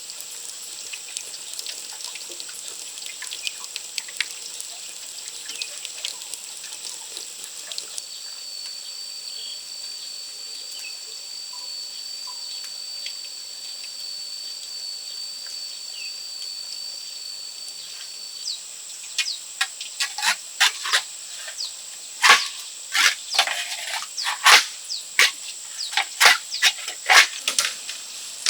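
Outdoor ambience with a steady high-pitched drone and a second, lower steady whine for a while in the middle. From about two-thirds of the way through, a run of irregular sharp knocks, the loudest sounds here.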